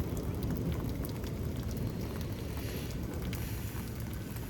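Rain falling steadily: an even hiss with scattered faint ticks of drops.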